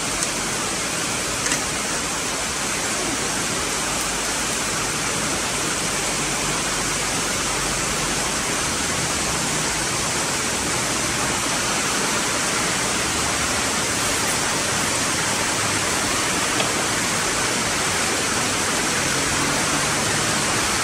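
Heavy downpour of rain, a steady even rush of noise, with a couple of small clicks near the start.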